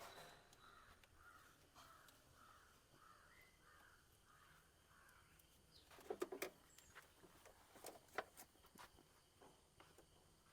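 Faint bird calls in a quick series of short notes, two or three a second, which stop about five seconds in. Later come a few sharp clicks or knocks, the loudest near six and eight seconds in.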